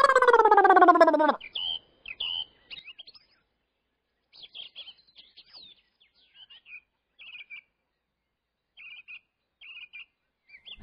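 Small birds chirping in short, scattered calls, after a brief loud voice sliding down in pitch at the very start.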